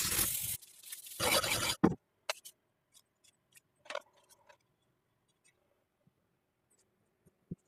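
Two scraping strokes, each about a second long and the second ending in a sharp click at about two seconds in. After that come a few faint, scattered taps and clicks of light handling.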